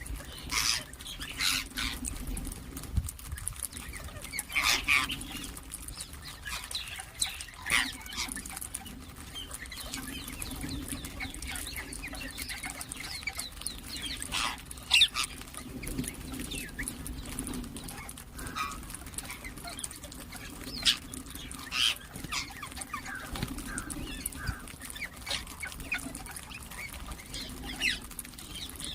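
Ringneck parrots (rose-ringed parakeets) calling: short, sharp screeches and chirps at irregular intervals.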